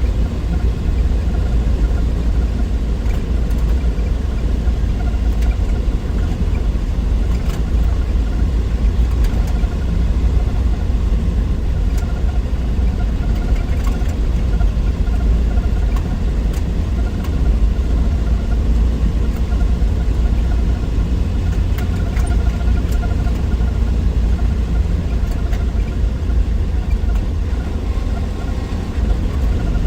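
1963 Willys Wagon under way, its 230 Tornado overhead-cam straight-six running with a steady low rumble.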